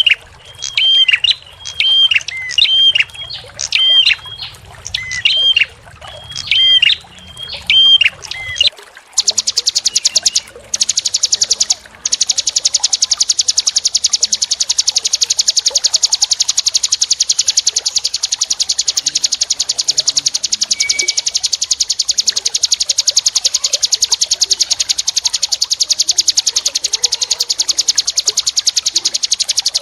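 Small songbirds calling: a short curved call repeated about once a second, then after about nine seconds a different, very fast high-pitched buzzing trill that runs on.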